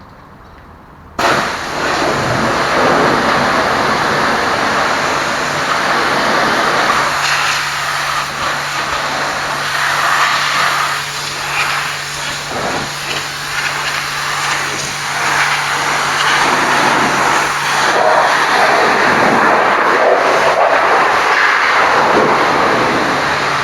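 High-pressure washer jet spraying water onto a truck, a dense steady hiss that starts suddenly about a second in. A steady low hum runs under it for a stretch in the middle.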